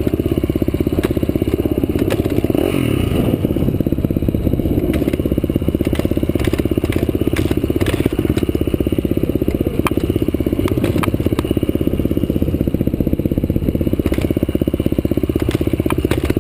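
Off-road vehicle engine running steadily under way at an even pace, with a brief rise in revs about three seconds in and scattered clicks and rattles from the ride.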